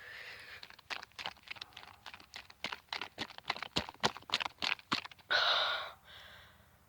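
Plastic ketchup bottle crackling and clicking in a rapid, irregular run as it is squeezed hard, then a loud, heavy breath about five seconds in.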